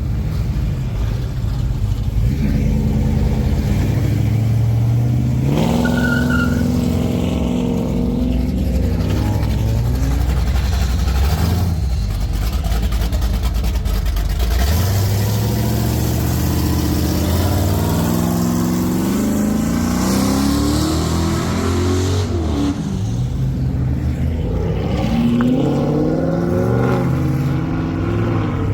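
Car engines running as cars pull away, revving several times, with the pitch rising as they accelerate.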